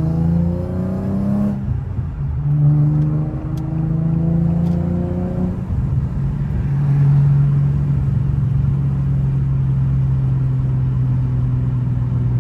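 Infiniti G37's V6 engine heard from inside the cabin while driving. It pulls up through the gears, its pitch climbing and dropping at gear changes about a second and a half in and again about five and a half seconds in, then holds a steady cruise.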